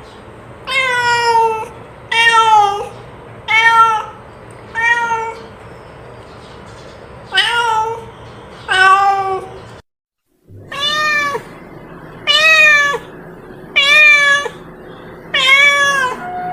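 A cat meowing over and over, about ten meows roughly a second apart, each one dropping in pitch at its end, with a short break in the middle.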